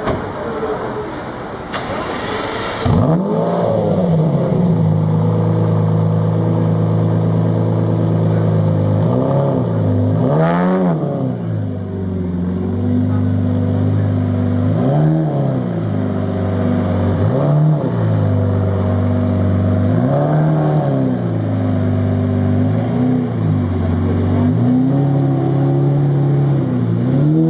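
Lamborghini Murciélago LP 670-4 SuperVeloce V12 coming in loudly about three seconds in, then idling with repeated throttle blips every two to three seconds, each a quick rise and fall in pitch.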